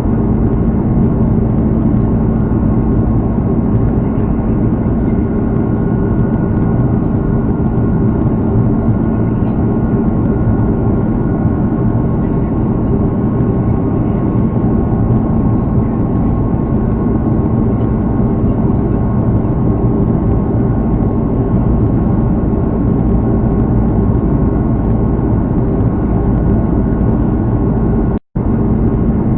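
Airbus A330's Rolls-Royce Trent 700 turbofan engines running steadily, heard from the passenger cabin as a constant rushing drone with a steady hum. The sound cuts out for an instant near the end.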